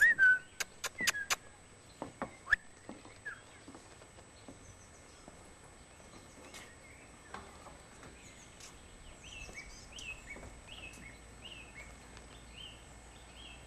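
Songbirds calling: scattered chirps, then a steady series of short falling chirps repeated about twice a second in the second half. A quick run of sharp clicks in the first second and a couple of knocks a moment later are the loudest sounds.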